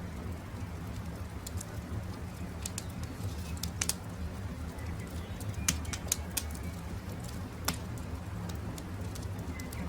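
Campfire crackling, with sharp pops scattered irregularly over a steady low rumble, and faint bird calls in the background.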